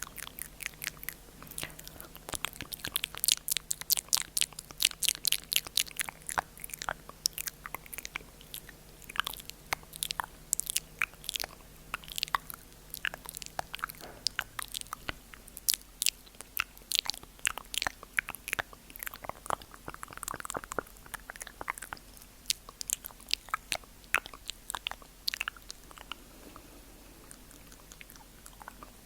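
ASMR mouth sounds close to the microphone: a fast run of wet clicks and smacks from the tongue and lips, several a second, thinning out briefly now and then.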